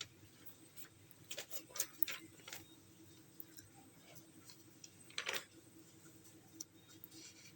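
Light clicks and taps of hands handling the TV's circuit board and cables. They come in a cluster between one and three seconds in, with a louder scrape a little after five seconds.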